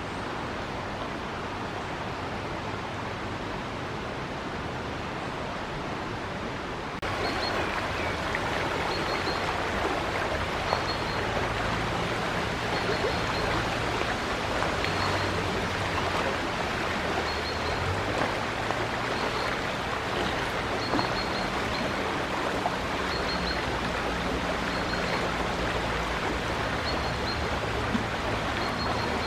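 River water rushing steadily. About seven seconds in, it cuts abruptly to a louder, brighter stretch of flowing water. From then on, short high chirps recur every second or so over it.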